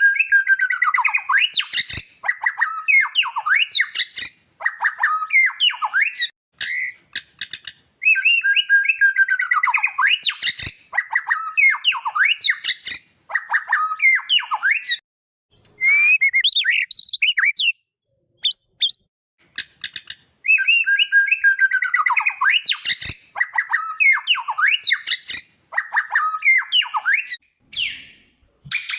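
White-rumped shama (murai batu) song: rapid, loud whistled phrases with sliding notes. The same phrase repeats three times, about ten seconds apart, with abrupt silent gaps between the phrases.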